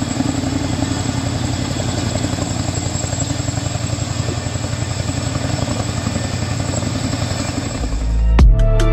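Boeing CH-47 Chinook tandem-rotor helicopter flying past, with a steady, rapid chop from its rotors. Music with heavy bass and sharp beats comes in near the end.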